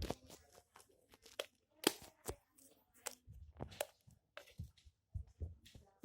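Hands kneading and stretching sticky homemade slime made from glue, dish soap and shampoo, giving irregular wet clicks and pops; the loudest comes about two seconds in.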